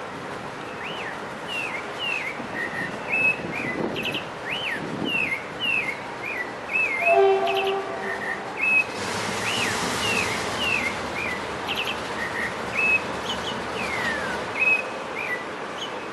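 A bird singing over and over in short whistled, gliding phrases. About seven seconds in a distant train horn sounds briefly, and a rushing sound swells and fades a couple of seconds later.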